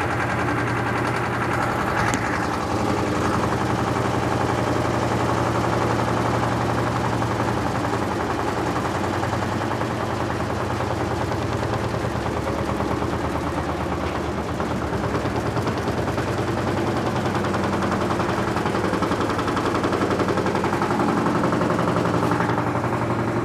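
Electrolux LT13B top-load washing machine running, with a steady low motor hum and a fast, continuous rattling knock from its suspension, a suspension noise called very annoying.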